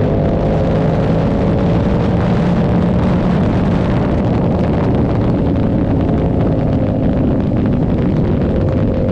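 Yamaha R7's 689 cc parallel-twin engine through an SC Project aftermarket exhaust, running at steady cruising revs with only a slight drift in pitch, over a rush of wind noise.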